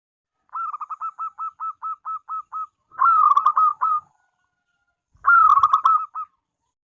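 Zebra dove (perkutut) calling: a run of about eleven quick, short, evenly spaced notes, then two louder cooing phrases about two seconds apart.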